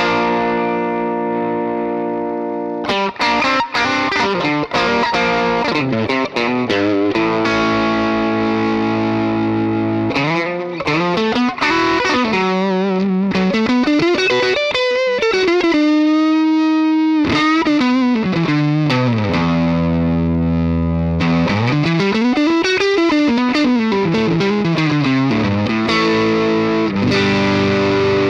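Distorted electric guitar played through a DemonFX "Gravity" effect pedal. It rings out long sustained chords, and several notes glide up in pitch and back down. About halfway through, a single note is held with vibrato.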